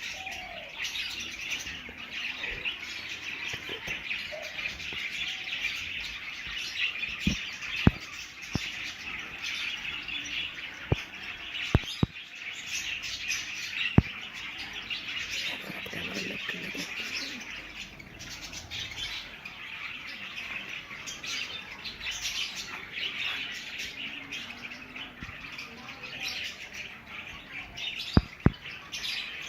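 A flock of budgerigars chattering and chirping without a break, many birds at once. About nine sharp clicks stand out, a cluster about a quarter to half of the way in and two close together near the end.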